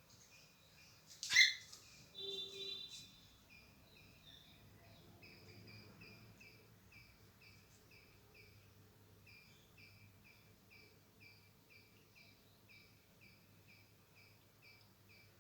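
A cockatiel gives one short, loud call about a second and a half in. Soft chirps repeat steadily at about three a second.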